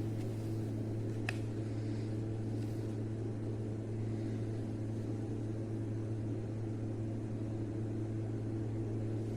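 A steady low mechanical hum, with one faint click about a second in.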